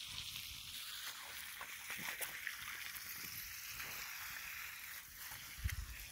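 Garden hose spraying water, a steady hiss, with a few low bumps near the end.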